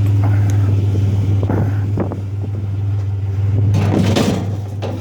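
Steady low hum of an idling truck engine, with a few knocks about one and a half to two seconds in and a louder stretch of scraping near the end as wrought iron chairs are handled and loaded onto the truck.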